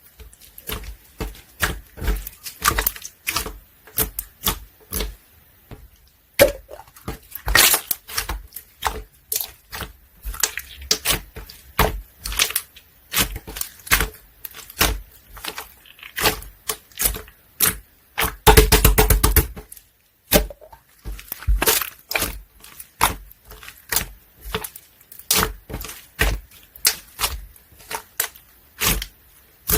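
Clear green jelly slime being squished and stretched by hand, giving irregular sharp crackles and pops of trapped air, several a second, with a few longer, louder squelches along the way.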